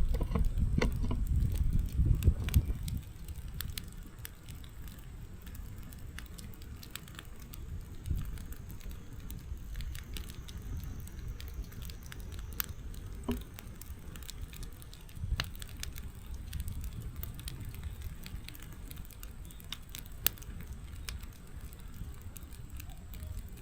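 Firewood burning in a fireplace: irregular sharp crackles and pops over a low rumble of the flames, louder for the first few seconds.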